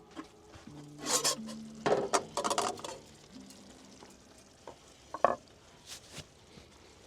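Hot pasta water poured out of a camping pot through the holes in its strainer lid, in a few short splashing pours: the biggest come about one and two seconds in, and a brief one just after five seconds.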